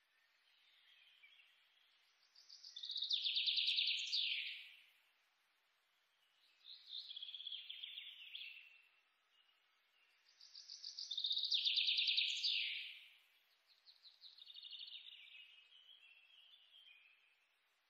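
A songbird singing: a loud, rapid trilled phrase that falls in pitch at its end, heard twice about eight seconds apart, with quieter chirping phrases between.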